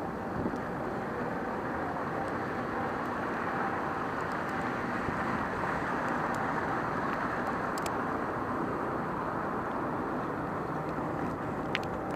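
Steady rushing noise of a bicycle ride through city streets in the snow: wind and street noise with a faint steady hum and a few faint clicks.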